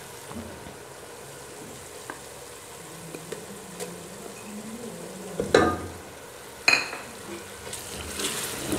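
Onion and garlic paste sizzling as it fries in oil, stirred with a wooden spoon as ginger paste goes in. Two sharp knocks come about five and a half and nearly seven seconds in, and the sizzling grows louder near the end.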